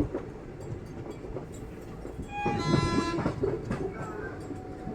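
Train running with a steady rumble. About two and a half seconds in, a horn sounds for about a second.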